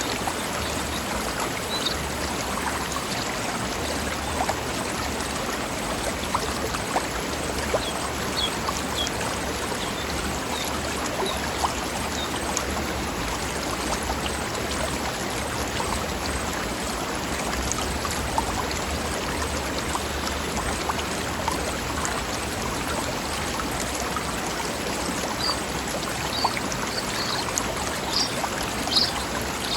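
Stream flowing over rocks, a steady babbling rush of water.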